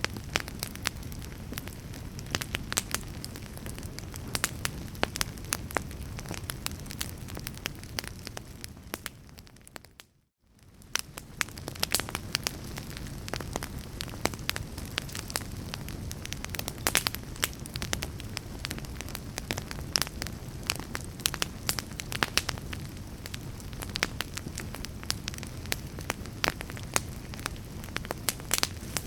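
A fire crackling, with frequent sharp pops and snaps over a steady low rumble. About ten seconds in, the sound fades out to silence for a moment, then fades back in.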